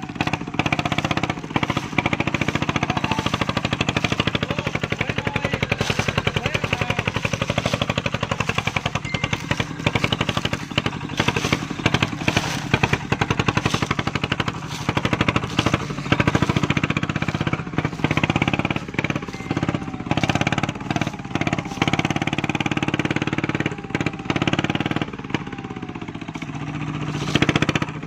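Single-cylinder diesel engine of an e-taen farm truck running under load, hauling a full load of sugarcane, with a fast, steady putting beat. Irregular knocks and rattles sound over it as the truck moves.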